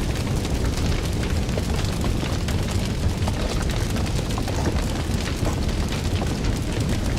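Fire burning with a steady low rumble and frequent small crackles and pops.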